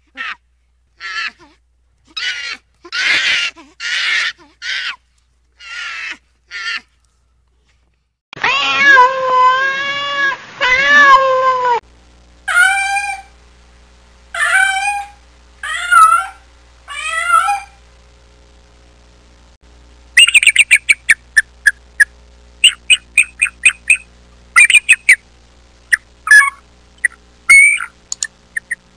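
A run of short high animal calls, then a cat meowing: two long meows followed by four shorter ones falling in pitch. Then a bird calling in quick, high, repeated notes.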